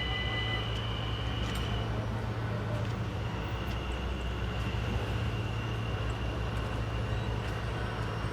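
Train running past, a steady low rumble with a thin high wheel squeal that fades about two seconds in and comes back a second later.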